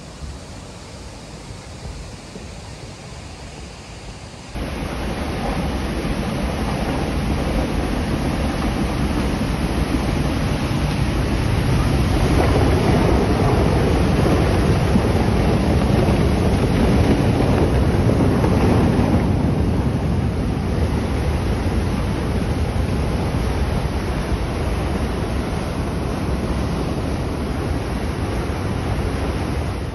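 Steady rushing of a flooding, rain-swollen river, loud and even, becoming louder at a cut about four and a half seconds in.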